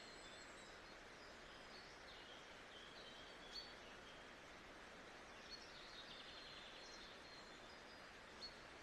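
Faint nature-sounds ambience: a steady, even hiss with small birds chirping now and then, and a few soft clicks.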